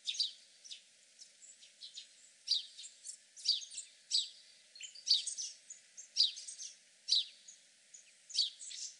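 A small bird chirping over and over: short, high, falling chirps, one or two a second at uneven intervals.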